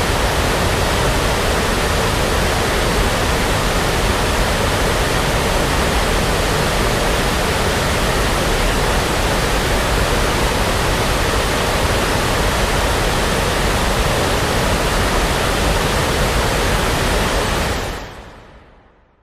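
Steady synthetic brown noise, a deep even rushing hiss with no pattern or tone, fading out quickly near the end.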